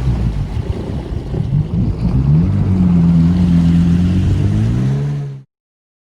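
Jet ski engine running under way with a rushing haze. It revs up about two and a half seconds in, holds steady, then cuts off abruptly near the end.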